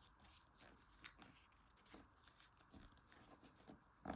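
Faint rustling and creasing of origami paper being folded by hand, with a few soft crinkles and taps scattered through.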